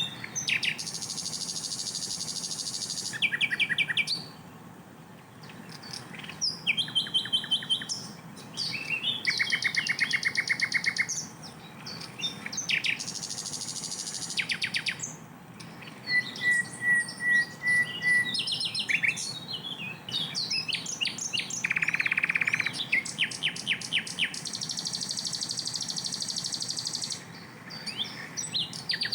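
Sikatan londo, a flycatcher, singing a long varied song of rapid trills and fast runs of repeated high notes (the 'tembakan'), with buzzy stretches and a short series of clear whistled notes, broken by brief pauses.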